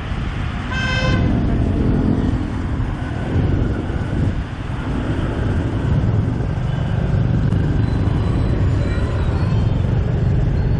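Motorbike riding through dense city traffic: a steady engine and road rumble with wind on the microphone, and a short horn toot about a second in.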